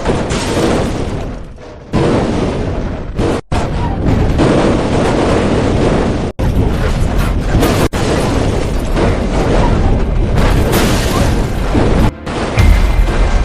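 Loud boom and explosion sound effects over music, in several edited clips that cut off abruptly.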